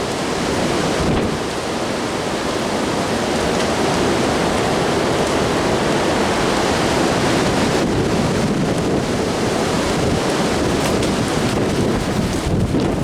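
Strong gusty wind, 50-plus mph, blowing and buffeting the microphone in a steady loud rush.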